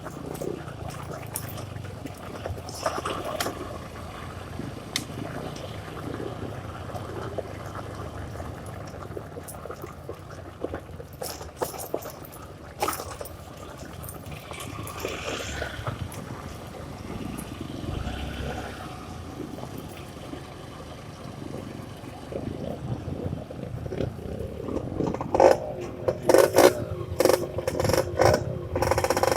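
Honda CRF150 dirt bike's single-cylinder four-stroke engine running at low revs among splashing water, with scattered knocks that grow into a louder clatter near the end.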